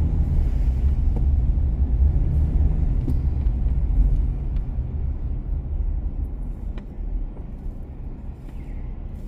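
Low rumble of a motor vehicle on the road, loud for the first four seconds or so, then fading away.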